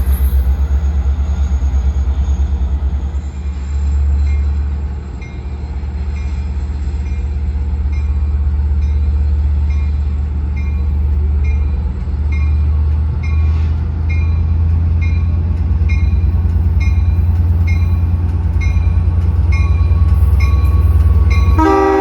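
LIRR diesel locomotive running with a steady low engine rumble while a grade-crossing bell dings about three times every two seconds; the locomotive's horn starts sounding just at the end.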